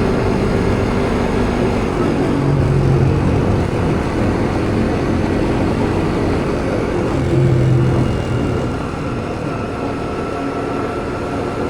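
Motorcycle engine running under way, mixed with a steady rush of wind on the microphone, with a few brief swells of low engine hum.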